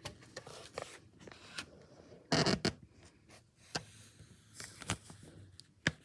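Drawing on paper: irregular short scratchy strokes, with a louder rasping stroke about two and a half seconds in.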